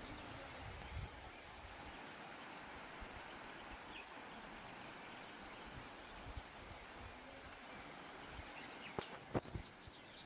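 Faint outdoor ambience: a steady hiss with scattered short, high bird chirps, and a couple of sharp clicks near the end.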